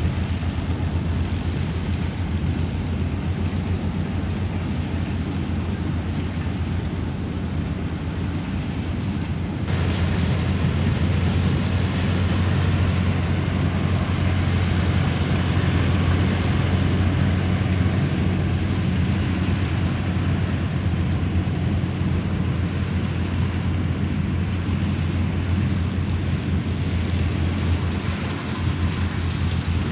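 Combine harvester running steadily with a deep, constant engine drone. About ten seconds in the sound steps up abruptly, louder and brighter, and stays that way.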